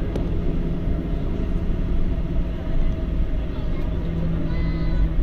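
Passenger airliner cabin noise: the aircraft's engines running with a steady low rumble and a steady hum, heard from inside the cabin.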